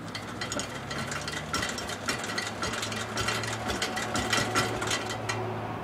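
Bolens 1050 garden tractor's single-cylinder engine running just after a cold start: a steady low hum with many sharp ticks.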